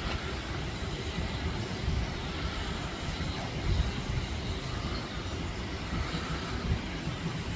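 Steady rumble of a train on the move, with no distinct exhaust beat.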